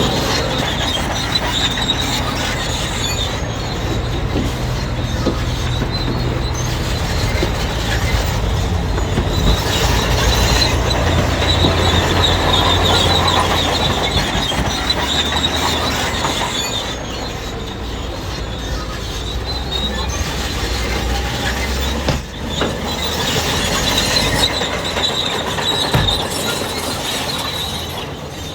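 Crawler bulldozer working: its diesel engine runs steadily under load while the steel tracks squeal, a high-pitched squeal that comes and goes.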